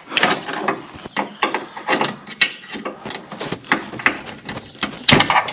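Irregular sharp clicks and knocks, several a second, from hand work on a lawn tractor's mower-deck lift linkage: pins, linkage and tools being handled.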